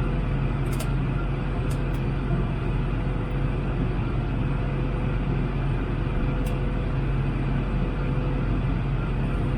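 Steady cabin noise of an Airbus A321 in flight: an even roar of airflow and engines with a constant low hum and a faint steady tone, and a few faint clicks.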